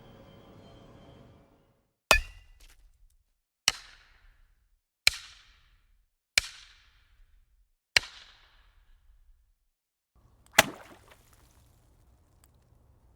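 Six sharp, loud cracks, the first about two seconds in and then roughly every one and a half seconds, the last after a longer pause; each has a short echoing tail. A faint fading tone runs in the first second, and a faint low hum follows the last crack.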